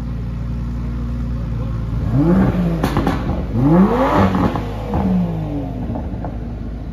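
Car engine idling, revved a few times around the middle, each rev rising and falling in pitch.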